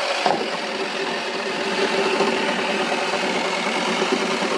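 Toy washing machine's small motor running steadily as its drum turns, with a single click about a third of a second in.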